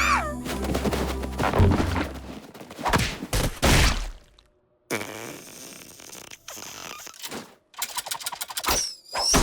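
Cartoon slapstick sound effects: a quick falling whistle, then a string of scrapes, thumps and whacks. The effects cut to silence for about half a second midway and start up again.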